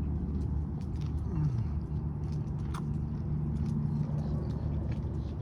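A steady low mechanical hum with a brief downward glide in pitch, mixed with scattered sharp clicks.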